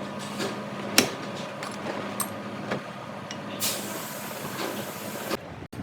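Workshop sounds during a gearbox rebuild: one sharp hammer blow on metal about a second in, a few light clinks, then a hiss for nearly two seconds that stops abruptly.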